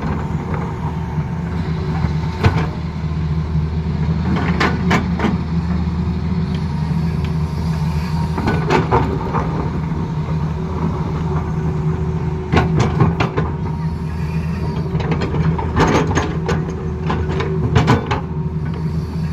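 Tata Hitachi excavator's diesel engine running steadily under load, with irregular metallic clanks and scrapes every few seconds.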